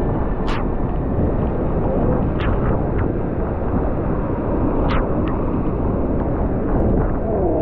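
Wind buffeting the microphone over the steady rushing roar of a large waterfall, a heavy, rumbling noise that swells and fades unevenly.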